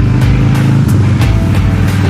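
Music with a steady beat, over the V-twin of a 2002 Harley-Davidson Softail Springer running at riding speed through Big Shot Staggered exhaust pipes.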